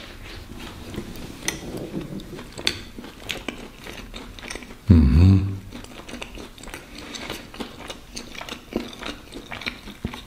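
A person chewing a mouthful of sausage sandwich, with many small wet mouth clicks throughout. About halfway through there is one short, much louder low sound.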